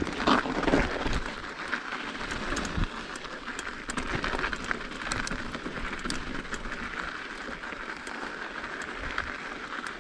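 Mountain bike rolling over an icy, frozen trail: a steady rolling noise from the tyres, with many small clicks and rattles from the bike.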